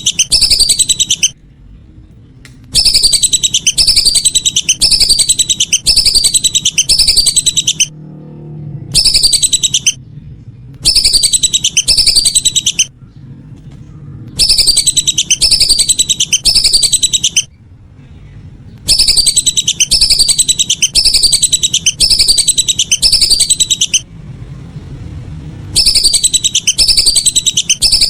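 Lesser whistling duck (belibis) calls played back as a hunting lure: loud runs of high, falling whistled notes, about two a second, in bursts of a few seconds separated by short pauses.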